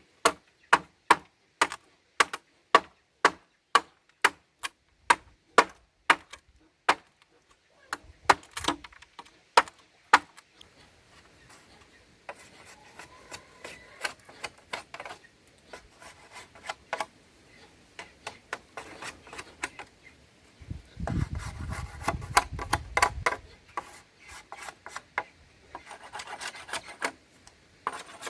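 Hand-tool work on a piglet feeding trough under construction. There are sharp, evenly spaced knocks about twice a second for the first ten seconds. After that come irregular scraping and rasping strokes, with a heavier, lower scrape a little past the middle.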